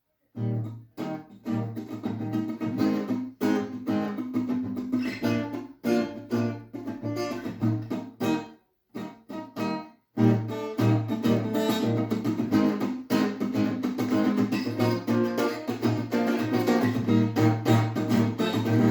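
Guitar strummed in a steady rhythm, the instrumental intro of a song. It breaks off briefly a little before halfway, then comes back louder.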